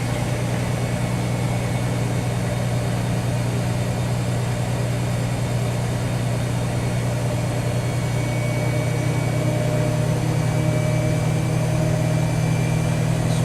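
Whirlpool Duet Sport front-load washer in its spin cycle, drum turning below full speed while it drains, giving a steady low hum. A faint high whine comes in about eight seconds in.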